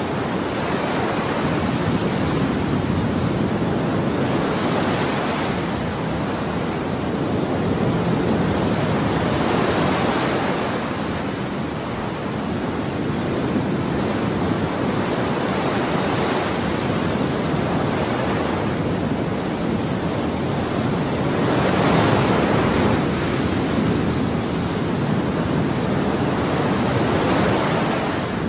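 Ocean waves breaking on a shore, a steady wash of surf that swells every few seconds as each wave breaks.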